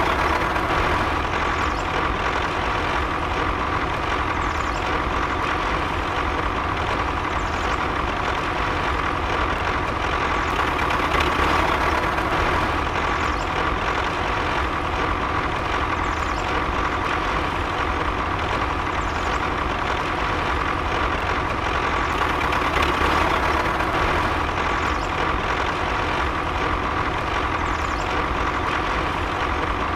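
A motor running steadily and without a break, with a low rumble and an even whine over it.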